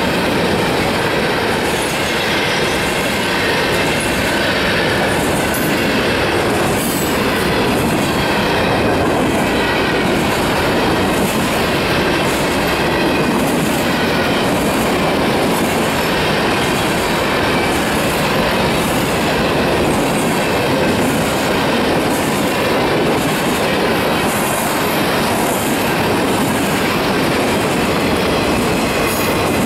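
Norfolk Southern freight cars rolling past steadily, a loud continuous rumble of wheels on rail with a regular beat, and a faint wheel squeal as the train takes a curve.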